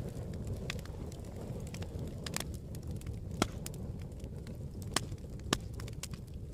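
Campfire burning with a steady low rumble and irregular crackles and pops, a few sharper pops standing out a little past halfway.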